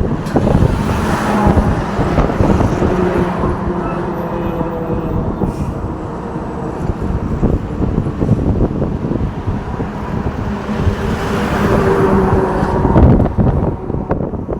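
Road traffic with trucks driving past: steady tyre and engine noise with a low engine hum, swelling as vehicles pass about a second in and again near the end. Wind buffets the microphone.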